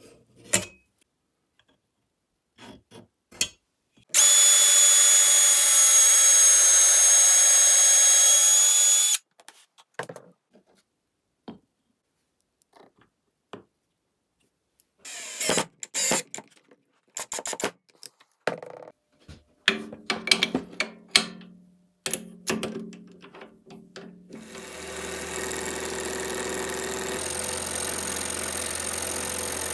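Workshop tool sounds: a power tool runs steadily for about five seconds and cuts off. Scattered knocks and clicks follow, and near the end a motor starts up and keeps running.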